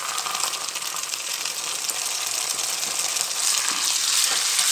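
Ginger-garlic paste and browned onions sizzling in hot oil in a kadai, a steady hiss that grows louder about three seconds in as a spatula stirs the pan.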